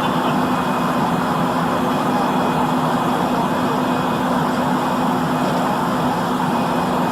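A vehicle engine running steadily with a constant hum, over road noise; it cuts off abruptly near the end.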